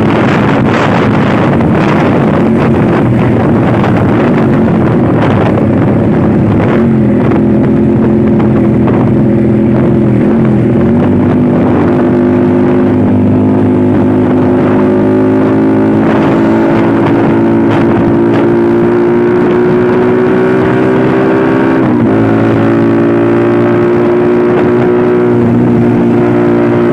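A vehicle engine running steadily under way, its note slowly rising in pitch with a brief dip and recovery about three quarters of the way through, with wind noise on the microphone.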